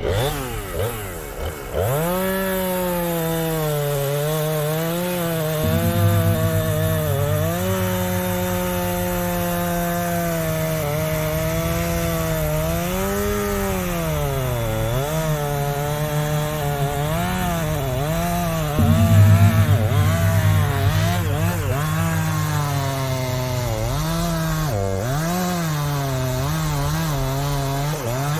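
Two-stroke chainsaw running at high revs and cutting into a red oak trunk. Its pitch sags and recovers again and again as the chain bites, and it grows louder twice: about six seconds in and again near twenty seconds.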